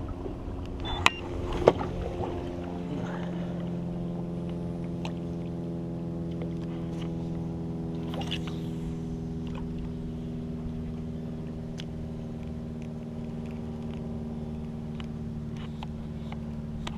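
A small boat motor starts up after a few sharp clicks in the first two seconds, then hums steadily at one even pitch.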